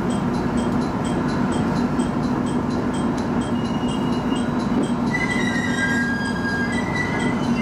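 A train running on rails with a steady hum and a regular light ticking. About five seconds in, high wheel squeal sets in, as on a curve.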